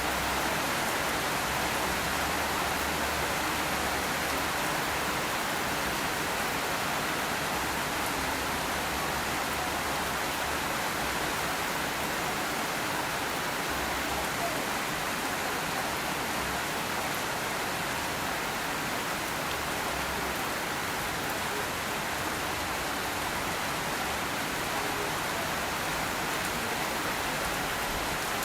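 Steady rain falling, an even hiss of drops on the ground and surfaces with no let-up.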